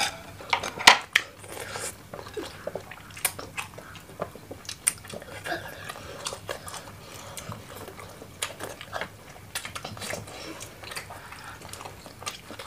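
Close-miked eating sounds: chewing and biting into chicken sausages and spicy fried instant noodles, with many short sharp clicks and smacks, the loudest about a second in.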